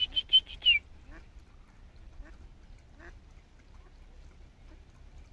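A bird calling: a fast run of loud, high calls that ends with a note dropping in pitch within the first second, then a few faint calls.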